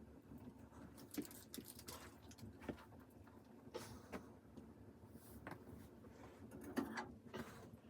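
Faint, irregular clicks and soft knocks, about eight over several seconds, the loudest near the end.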